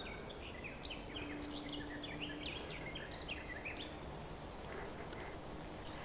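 Small songbird singing a rapid series of short high notes for about three and a half seconds, over a faint background hiss.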